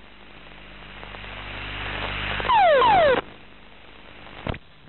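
T-6 cockpit audio during a two-seat ejection. A rush of noise builds up, then two loud falling whistles come a moment apart as the two seats fire, and a sharp click follows near the end.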